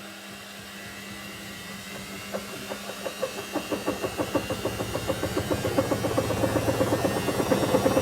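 Faulty washing machine speeding up, with a rhythmic knock that starts about two seconds in and grows faster and louder as the drum speeds up.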